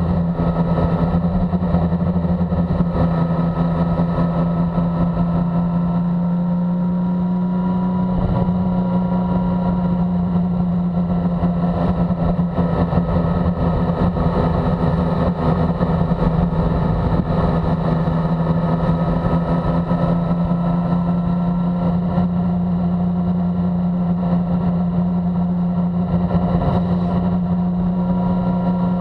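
Motorcycle engine running steadily at a cruise of about 50 mph, heard close from the bike itself, its note drifting only slightly in pitch, with steady wind and road noise underneath.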